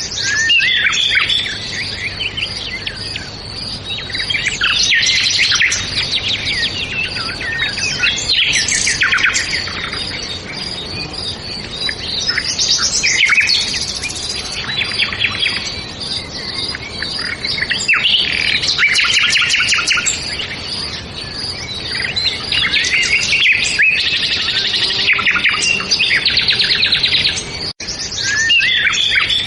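A chorus of several songbirds chirping and trilling together, with many overlapping calls and no pauses. The sound cuts out for an instant near the end.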